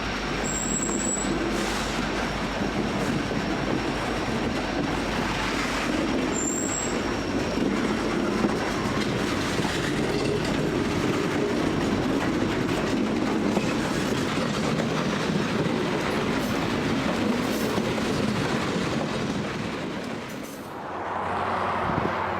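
Freight train rolling by, its wheels clattering over the rails, with two brief high-pitched wheel squeals near the start and about a third of the way in.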